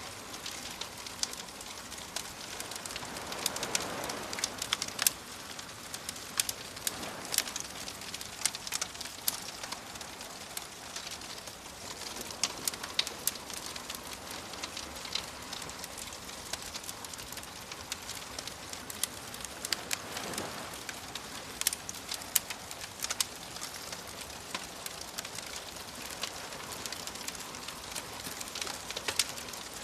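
Campfire crackling, with frequent sharp pops over a steady hiss. Soft waves wash in a few times, swelling and falling away, most clearly a few seconds in and again about two-thirds of the way through.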